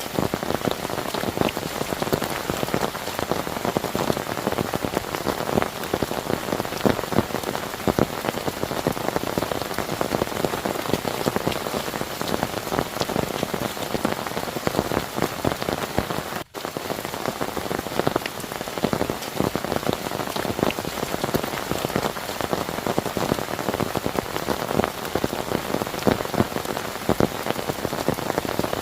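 Heavy rain pouring steadily, a dense patter of drops hitting a surface, with a split-second dropout about halfway through.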